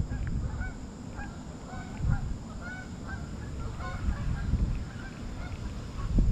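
Birds calling over and over in many short calls, with an uneven low rumble underneath.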